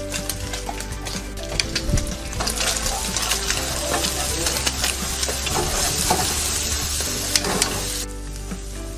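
Scrambled egg and minced garlic sizzling in hot sesame oil in a wok, with a spatula stirring and scraping through it in small clicks. The sizzle grows louder and brighter a couple of seconds in and eases off near the end.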